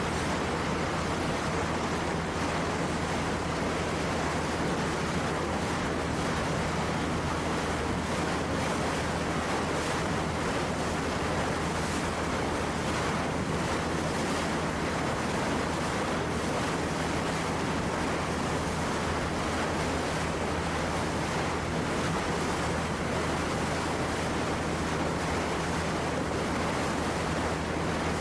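Steady wind and sea noise at the water's edge or on the water, with a low constant hum running underneath.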